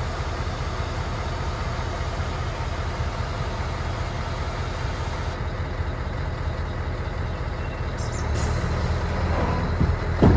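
Diesel lorry tractor unit's engine running steadily under way, with a steady high hiss that cuts off about halfway through; the engine gets a little louder near the end.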